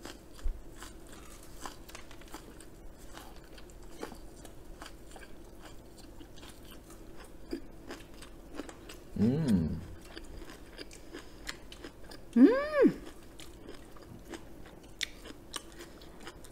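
Close-miked chewing and crunching of crispy fried chicken, a run of many small crisp crackles. Two brief hummed voice sounds break in, a low one about nine seconds in and a louder one about twelve seconds in that rises and falls in pitch.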